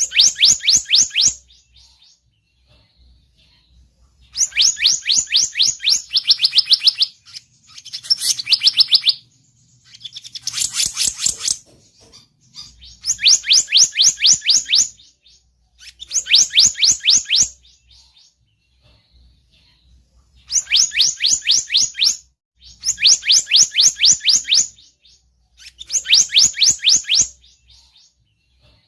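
Bird-lure recording of the bird called selendang biru: bursts of rapid high chirps, each about a second and a half long, repeated every few seconds with short pauses. The calls run together for a few seconds around the middle.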